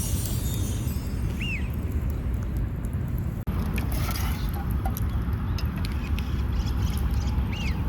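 Lakeside outdoor ambience: a steady low rumble, like wind on the microphone, with a bird giving a short chirp twice and a few faint clicks in the second half.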